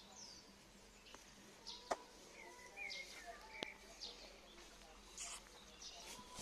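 Faint bird chirps, short high calls several times and a warbled call about two and a half seconds in, over quiet outdoor background, with two sharp clicks.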